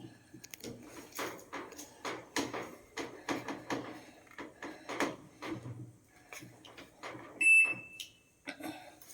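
Irregular knocking and clattering, then one short, high, steady electronic beep about seven and a half seconds in, the loudest sound in the stretch.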